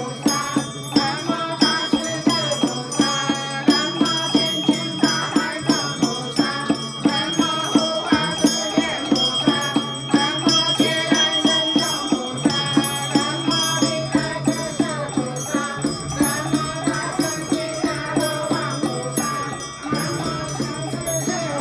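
Ritual scripture chanting by voices, kept in time by a steady percussion beat of about two strikes a second, with bell-like ringing over it. The regular beat loosens in the last few seconds.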